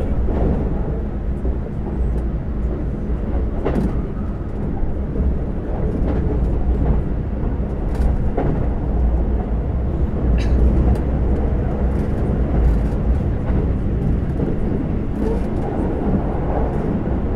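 Keikyu 2100 series train running at speed, heard from inside the carriage: a steady low rumble of wheels on rail with a few sharp clicks scattered through it.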